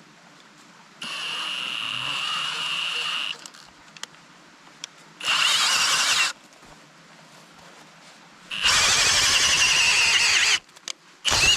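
Power drill boring into wood, run in three separate bursts with pauses between: a steady motor whine over the noise of the bit cutting.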